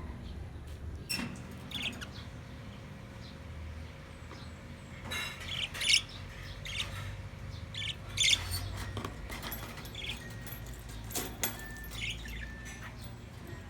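Pet parrots chirping and squawking in short, scattered calls, loudest about six and eight seconds in.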